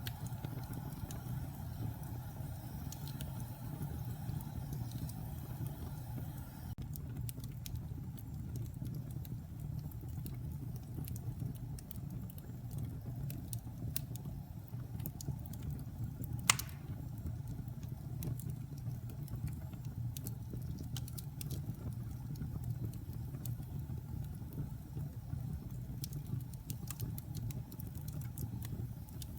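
Wood fire burning in a fireplace: a steady low rumble with scattered small crackles, and one loud pop of the logs just past halfway.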